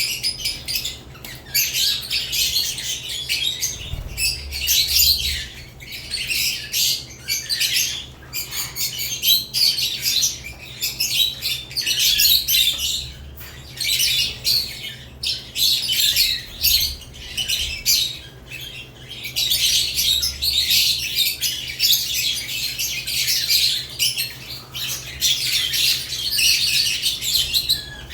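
Lovebirds chirping and squawking in a cage: rapid, high-pitched calls from several birds that come in dense clusters with short gaps.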